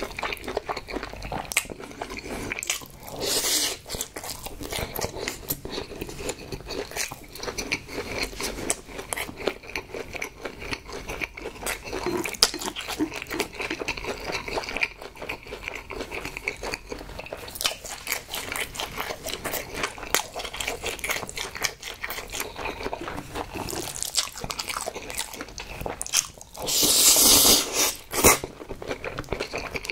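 Close-miked chewing and smacking of sticky braised pig's trotters and spicy mixed noodles, with fine wet crackles throughout. A long, loud slurp of noodles comes near the end.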